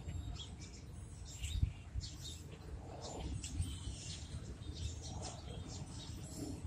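Songbirds chirping, with many short high calls scattered throughout, over a steady low rumble and a thump about one and a half seconds in.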